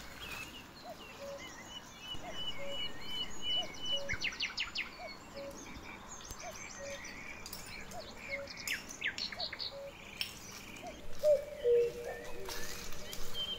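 Birds chirping and calling. One short, low call repeats about every second and a half, with higher chirps and trills over it. Longer, louder low calls come in near the end.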